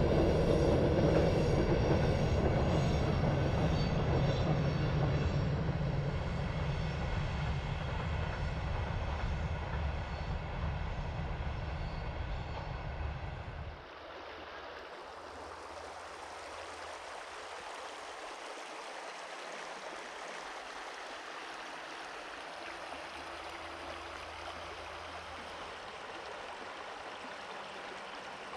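A freight train rolling past and fading away into the distance. About halfway through it cuts off abruptly, and a shallow river running over stones takes over as a steady rushing.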